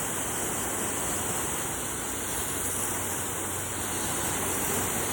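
Garden hose spraying water in a steady hiss.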